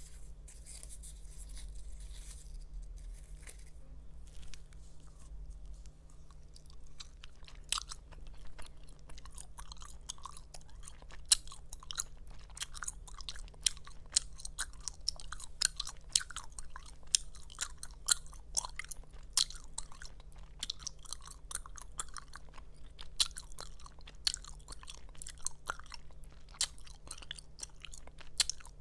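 Close-miked gum chewing: wet mouth smacking and snapping of gum. It is quiet for the first several seconds, then from about eight seconds in becomes a dense run of sharp smacks and pops, several a second.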